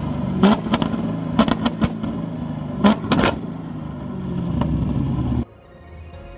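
Car engine running with several sharp clicks over it; the sound cuts off suddenly about five and a half seconds in.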